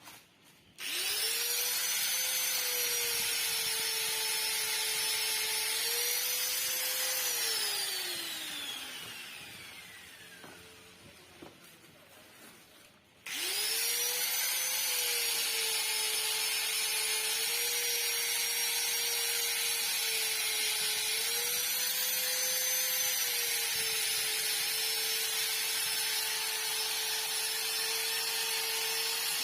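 Handheld electric power tool whining at high speed and dipping slightly in pitch a few times as it bites, used to bore out a motorcycle exhaust. It is switched off about seven seconds in and winds down over a few seconds, then is switched on again and runs steadily.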